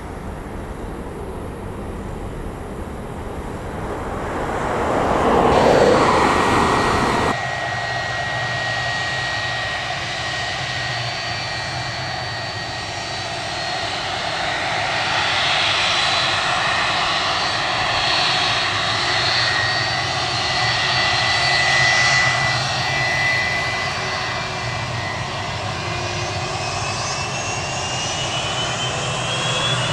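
Jet airliner engines. Broad engine noise swells for the first few seconds and stops abruptly about seven seconds in. Then comes steady jet engine noise with high whining tones, and near the end a rising whine as the engines spool up for takeoff.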